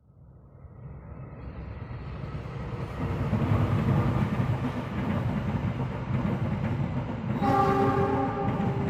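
Argo Lawu passenger train approaching and passing: the rumble of the train on the rails grows over the first few seconds and then holds steady. About two-thirds of the way in, the locomotive sounds one horn blast lasting a little over a second.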